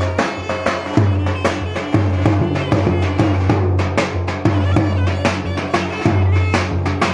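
Turkish davul bass drum and clarinet playing lively folk dance music: heavy drum strokes about once or twice a second under a reedy clarinet melody.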